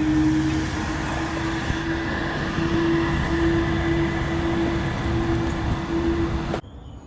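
Steady road and engine noise of a moving car with a droning hum, cutting off suddenly near the end.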